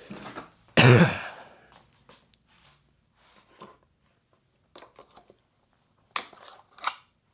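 A single loud cough about a second in, then a few short clicks and rattles of small parts being handled.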